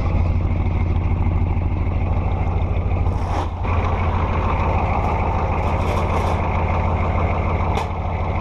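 Diesel truck engine, a 6.2 litre V8, running steadily under load with a deep rumble that dips briefly about three and a half seconds in and again near the end.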